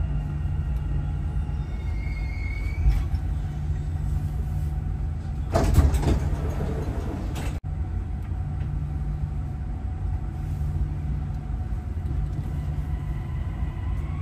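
Dubai Metro train running, heard from inside the carriage: a steady low rumble with a faint motor whine. A louder rush of noise lasts about two seconds around the middle, and the whine rises in pitch near the end.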